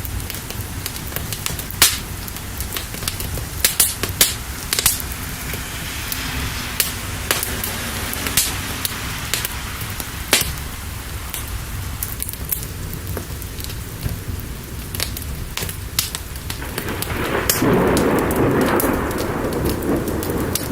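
Crackling fire with sharp pops over steady rain. Late on, a rumble of thunder swells in and keeps going.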